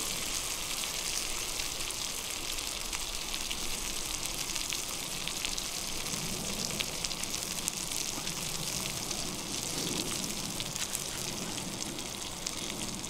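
Sausages, bacon and black pudding frying in a pan over a campfire: a steady sizzle with many small scattered pops and crackles.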